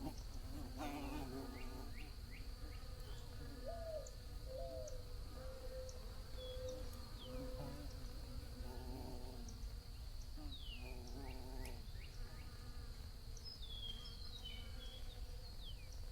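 Bees buzzing, the hum swelling and fading as they pass every few seconds, with short falling bird chirps in the background.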